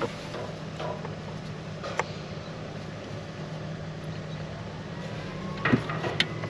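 A few light clicks and knocks of plastic fuel-return fittings being pushed onto diesel injector nipples, over a steady low mechanical hum.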